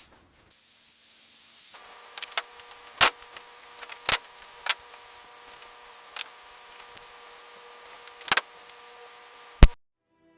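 Irregular sharp knocks and taps, the loudest a handful of hard strikes, over a faint steady hum; all of it cuts off suddenly near the end.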